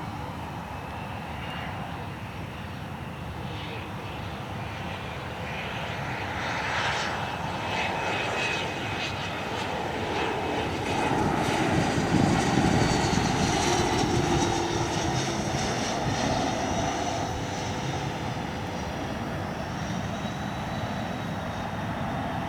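Cessna Citation Latitude business jet's twin turbofan engines on landing, growing louder to a peak about twelve seconds in as it passes closest, then easing off with a high engine whine.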